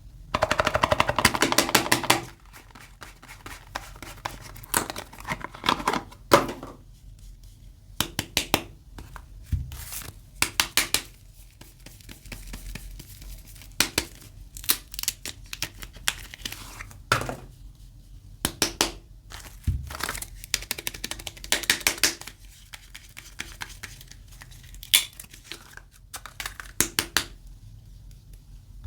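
Soap wrapping being unwrapped by hand: crisp crinkling of the wrapper and packaging tearing, in short bursts with quieter pauses between, the densest stretch in the first two seconds.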